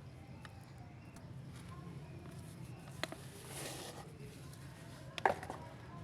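Hands working shape moulds and wet casting mix: a few light knocks, the loudest about five seconds in, and a short scraping rush in the middle, over a steady low hum.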